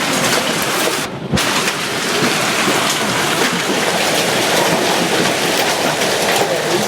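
Hail pelting down in a dense, continuous clatter of many small impacts, with a brief break about a second in.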